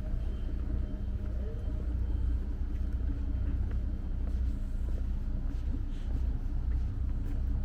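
A steady low engine rumble with a constant hum, as from a motor running nearby, over street background with faint voices.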